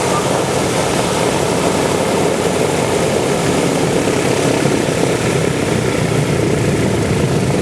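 Propeller aircraft engines running steadily and loudly.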